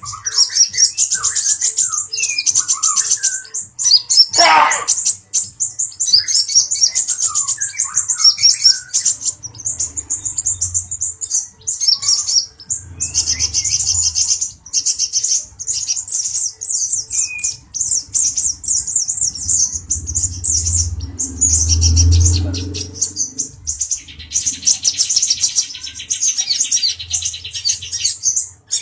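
Male brown-breasted kolibri ninja sunbird singing a fast, high twittering chatter almost without pause. About four seconds in, one louder call drops steeply in pitch.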